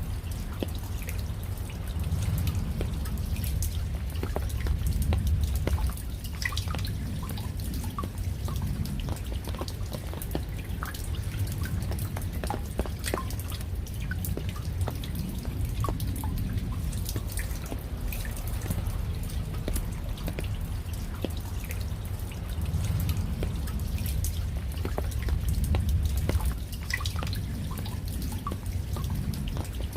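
Raindrops falling and dripping, many scattered individual drops over a low rumble of rain that swells and eases every few seconds.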